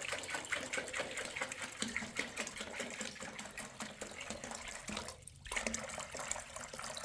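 Water running and splashing, with a brief stop about five seconds in.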